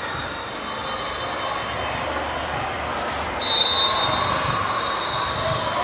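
Indoor volleyball game: ball impacts and voices echoing around a gym. About three and a half seconds in, a loud, high-pitched squeak or whistle cuts in and carries on more faintly afterwards.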